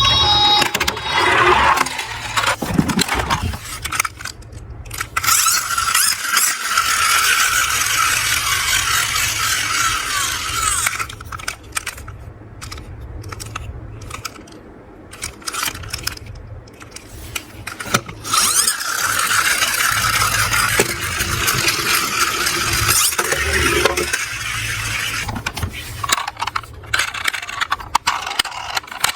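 Diecast toy vehicles rolling and scraping down a small slope, their wheels and bodies rattling in long runs with short pauses between.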